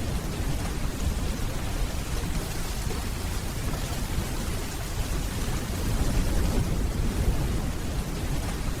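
Steady rainfall with a deep, low rumble of distant thunder underneath, swelling slightly about six seconds in.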